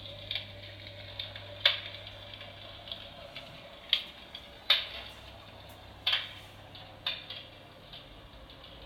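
Electric fireplace's built-in crackling-fire sound effect: irregular wood-fire pops and crackles, loudest pops a little under two seconds in and again near the middle, over a faint steady low hum.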